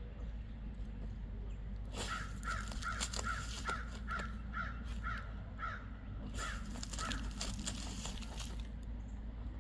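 A crow cawing about a dozen times in a steady series, roughly twice a second, over the dry scratching of a dog digging in soft dirt.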